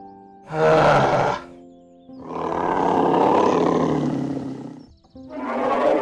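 Tiger roaring three times: a short roar about half a second in, a longer one lasting nearly three seconds, and a third starting near the end, over soft background music.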